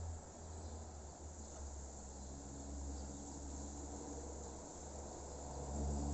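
Insects, crickets by their sound, chirping in a steady high continuous trill, over a low steady hum.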